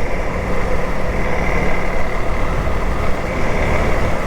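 Dual-sport motorcycle running steadily under way, its engine drone mixed with heavy wind and road noise.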